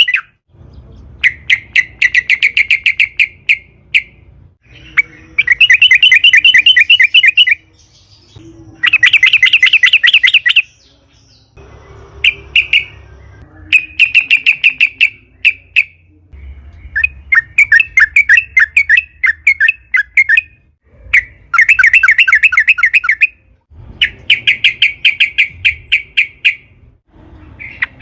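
Yellow-vented bulbul (trucukan) singing loudly in repeated bursts of rapid chattering notes. Each burst lasts one to two seconds, with short pauses between them.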